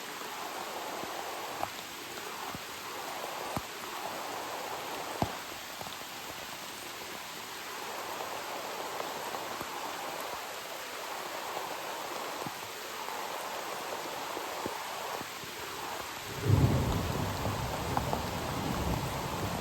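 Steady rain, with scattered sharp drop taps. A deep, low rumble sets in near the end and is the loudest part.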